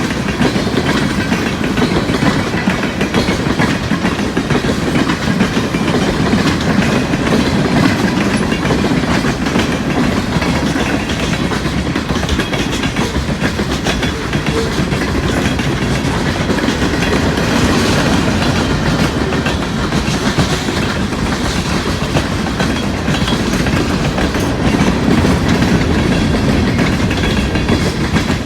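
New York, Susquehanna and Western freight train rolling steadily past at close range, a continuous loud rumble of wheels on the rails that holds for the whole stretch.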